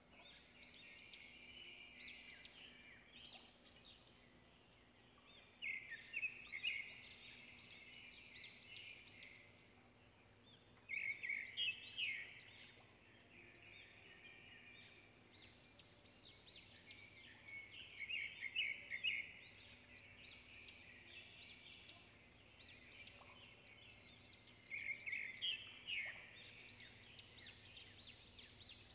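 Small birds chirping in bursts of rapid high chirps every few seconds, over a faint steady hum.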